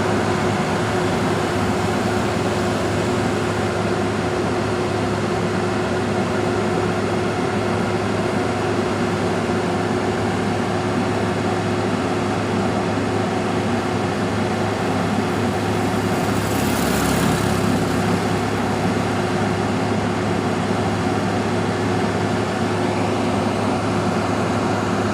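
A vehicle engine running steadily at an even pitch, with a brief hiss about seventeen seconds in.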